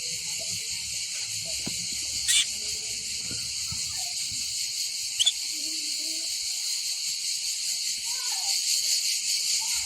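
Steady high-pitched chorus of insects buzzing, with a couple of short bird chirps, one about two seconds in and another about five seconds in.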